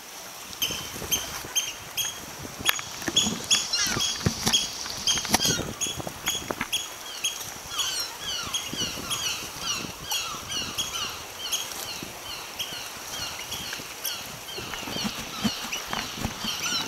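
A flock of birds calls over and over, several short calls a second, some sliding downward in pitch. Water splashes and the occasional knock from paddling cut in, busiest a few seconds in.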